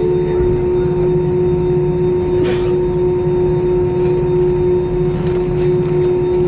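Steady cabin noise of an airliner taxiing after landing: the jet engines at idle and the cabin air system give a constant drone with a steady hum beneath it. A brief hiss sounds about two and a half seconds in.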